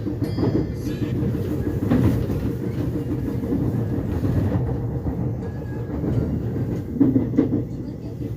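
Subway train running, heard from inside the carriage: a steady low rumble with the clickety-clack of the wheels over the rail joints, and a few louder knocks about two seconds in and near the end.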